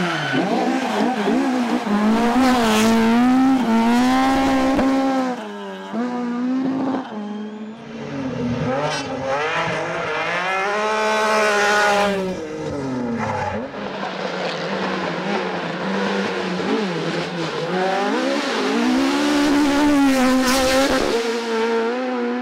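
Rally car engines revving hard, the pitch climbing and dropping again and again through gear changes and lifts, with several loud stretches as cars go past.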